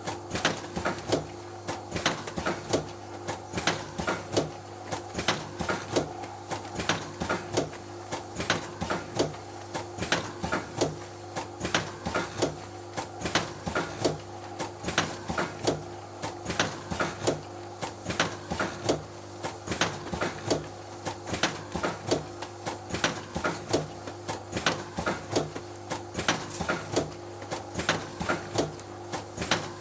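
Milk sachet filling machine running: a steady mechanical hum with fast, regular clicking and clacking, several strokes a second, as plastic sachets are filled and sealed.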